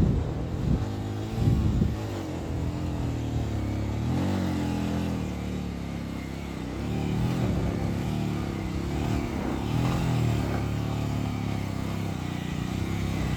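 Motorcycle engine running, its pitch rising and falling again and again as the throttle opens and closes.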